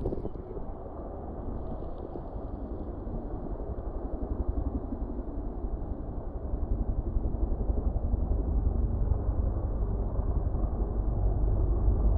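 Helicopter rotor and engine, a low pulsing rumble that grows louder about halfway through as the helicopter comes nearer.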